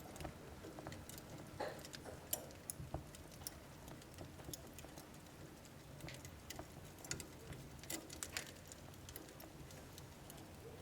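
Wood fire burning in an indoor wood stove: irregular sharp crackles and pops from the burning logs over a soft, low flame noise.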